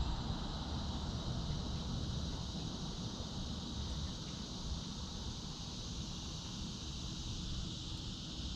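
Steady outdoor background: a continuous high insect drone over a low rumble of wind on the microphone.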